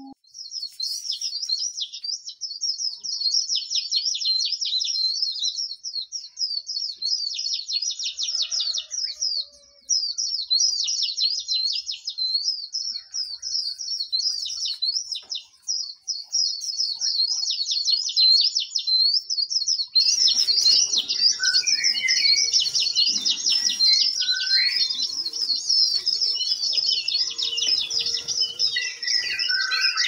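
Small songbirds chirping and twittering in rapid high-pitched trills, almost without a break. About twenty seconds in the sound changes to a busier chorus of several birds over background noise, with lower separate calls mixed in.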